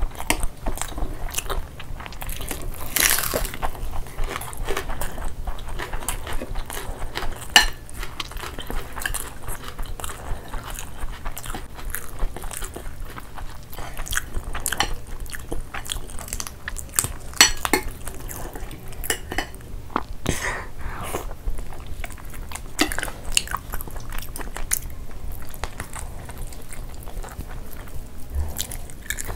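Close-miked ASMR eating sounds of two people chewing curry and rice: wet mouth clicks and smacks, with a steady low hum underneath.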